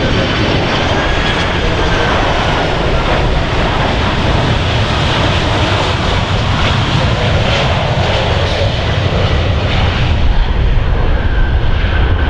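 Boeing 777-200F's twin GE90 turbofans running at takeoff power: a loud, steady jet noise with a faint high whine above it.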